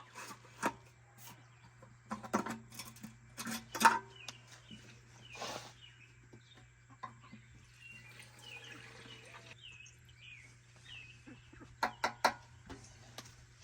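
Scattered clicks and knocks of hands working on the machine and handling parts and tools, loudest about four seconds in and again in a quick cluster near the end, with birds chirping faintly behind.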